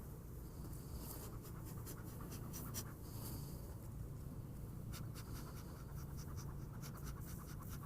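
Low, steady hum of honeybees in an opened hive, with light scratching and clicking from frames and hive parts being handled.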